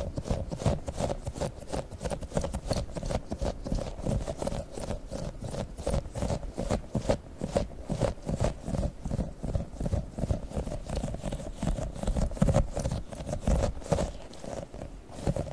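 Tiny sticky octopus toy being pressed and pulled near the microphone, making rapid sticky taps and pops, several a second without a break.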